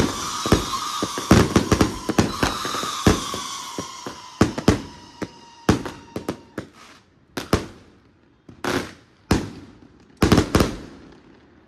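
Fireworks going off: a quick run of bangs and crackles at first, thinning to scattered single reports that echo away. A high whistle slowly drops in pitch and fades out about halfway through.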